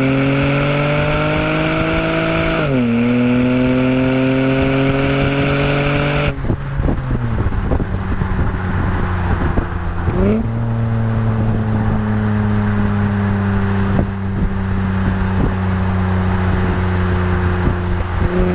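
Acura TL SH-AWD 3.7-litre V6 through an ATLP aftermarket exhaust, pulling hard under acceleration. The engine note climbs, dips at an upshift a little under 3 seconds in, and climbs again. About 6 seconds in the throttle closes and the exhaust gives short crackles. A quick blip follows about 10 seconds in, the revs then fall slowly as the car coasts, and the throttle is reapplied at the very end.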